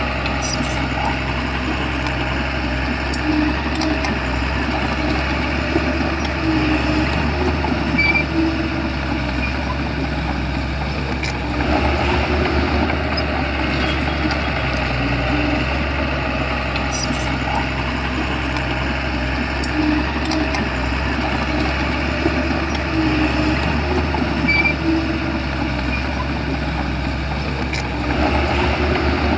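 Shantui crawler bulldozer's diesel engine running steadily, with a few sharp metallic clicks from the machine.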